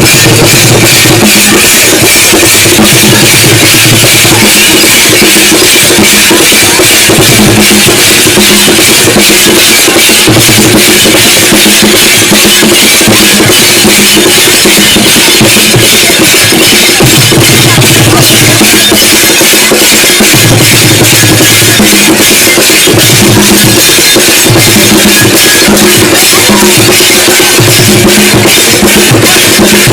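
Loud drum-led music with densely struck, fast beats and a low bass part that comes and goes.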